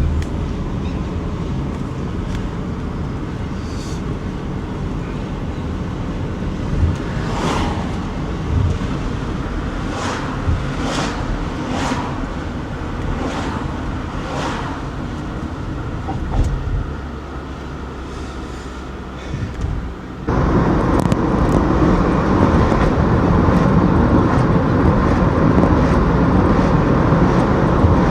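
Car driving, with road and engine noise heard from inside the cabin and a run of short whooshes in the middle. About twenty seconds in, the noise turns suddenly louder and fuller.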